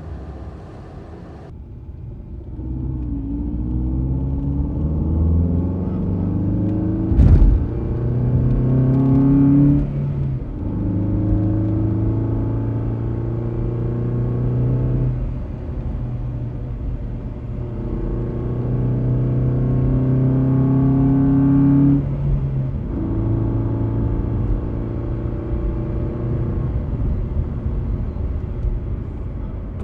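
Car engine and road noise heard from inside the cabin while driving. The engine note climbs in pitch as the car pulls away and drops off several times, as at gear changes. A single sharp knock comes about seven seconds in.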